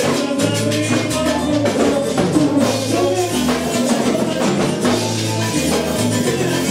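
Salsa band playing: a repeating bass line under drums and dense Latin percussion, with instruments holding notes above.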